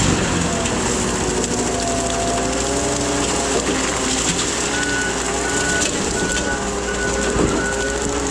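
Case 620 skid steer running hard with a Shearex mulching head, its engine pitch wavering under load. From about halfway through, its backup alarm beeps about twice a second as it reverses.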